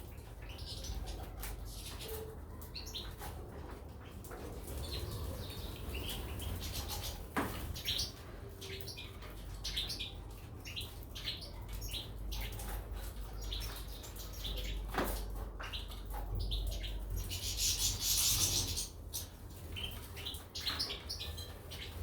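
Caged goldfinches and canaries chirping in many short high calls, with a flurry of wing-flapping about three quarters of the way through and a couple of sharp clicks, over a low steady hum.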